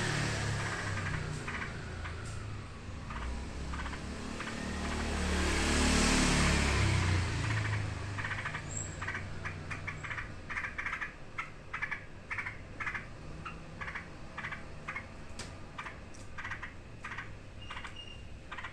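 Yellow-vented bulbuls giving rapid, repeated short harsh alarm chips, calls of fear, from about eight seconds in. Before that a passing vehicle rumbles, swelling twice and making the loudest sound.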